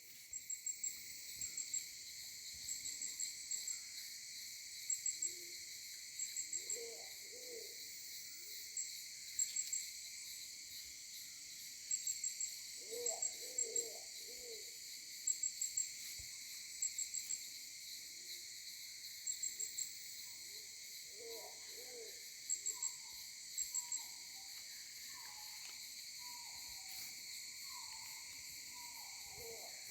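Forest ambience: a steady high insect drone with repeated groups of three short, sharp chirps, and clusters of low hooting bird calls every several seconds. Short falling calls join in over the last third.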